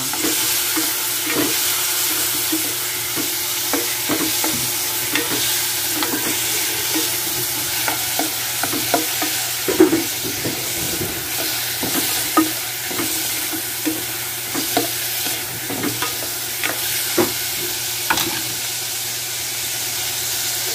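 Onion, tomato, chili and tofu sizzling in hot oil in a saucepan, a steady hiss, with a spoon stirring and knocking against the pan many times.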